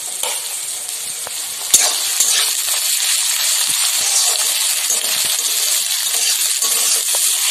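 Chopped tomatoes and onions sizzling in hot mustard oil in a metal kadai while being stirred with a metal spatula. There is a sharp tap a little under two seconds in, after which the sizzle grows louder and stays steady.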